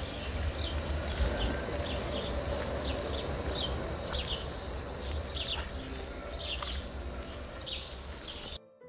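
Small birds chirping over and over, short falling notes about twice a second, over a steady low rumbling noise. The sound cuts off abruptly just before the end.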